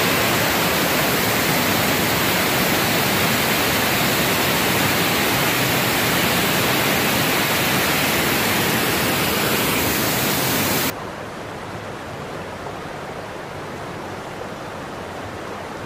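Waterfall rushing, a steady loud roar of falling water heard from right at its edge. About eleven seconds in it drops suddenly to a quieter, duller rush.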